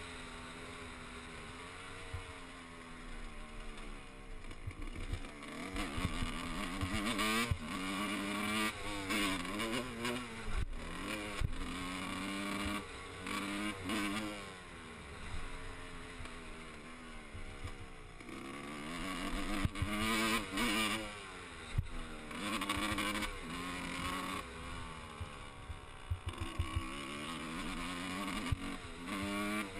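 Motocross bike engine revving up and falling back over and over as it is ridden around the track, pitch climbing and dropping with each burst of throttle, with wind buffeting the microphone.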